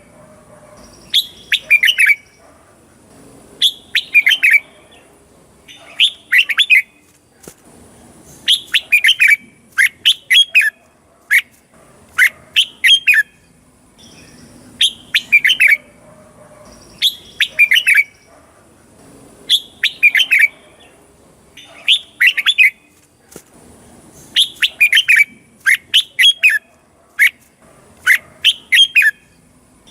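Red-whiskered bulbul singing short whistled phrases, repeated every second or two and often in pairs, the kind of song recording played to caged bulbuls to train them or get them singing.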